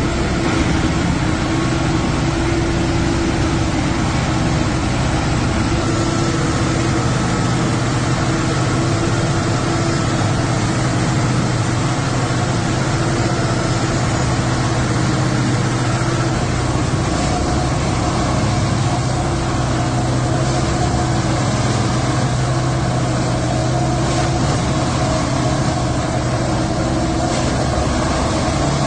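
Heavy diesel-powered railway track maintenance machine running steadily while compacting the track ballast, a continuous engine hum with steady tones. A higher tone joins about halfway through.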